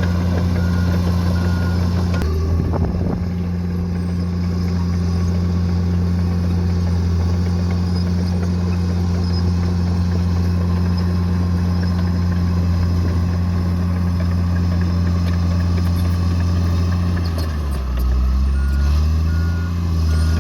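Bulldozer's diesel engine running steadily under load, with its reversing alarm beeping in the first couple of seconds and again near the end. Near the end the engine pitch sags and then climbs back as it takes and sheds load.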